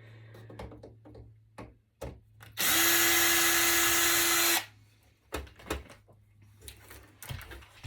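Power drill/driver running at a steady pitch for about two seconds, starting and stopping abruptly, with small clicks and knocks of handling before and after.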